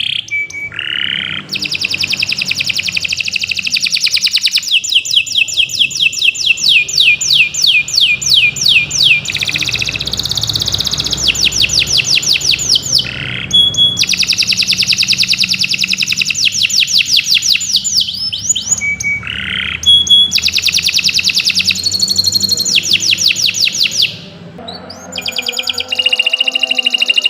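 Domestic canary singing a long, loud song of rapid trills, one run of repeated notes after another, with a few short breaks.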